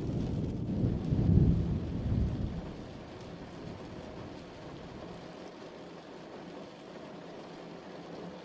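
Steady rain falling, with a low roll of thunder that swells about a second in and dies away by about three seconds in, leaving the even hiss of the rain.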